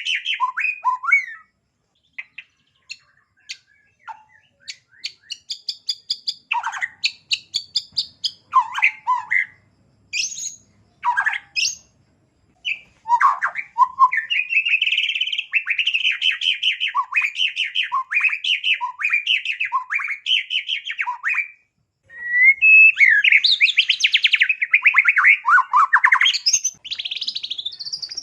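White-rumped shama (murai batu) singing a long, varied song of rapid chips, trills and repeated down-slurred notes, with short pauses between phrases. It is running through its repertoire of small-bird imitations.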